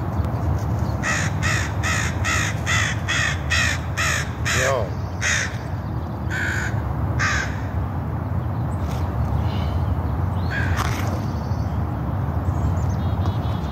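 A bird calling: a quick run of about ten calls, roughly three a second, in the first few seconds, then a few single calls spaced out, over a steady low background rumble.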